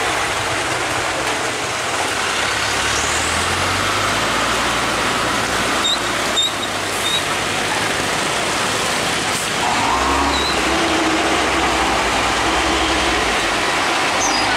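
Heavy truck engines running low under a steady hiss of road noise, the engine hum swelling about ten seconds in. A few brief high squeaks sound about six seconds in.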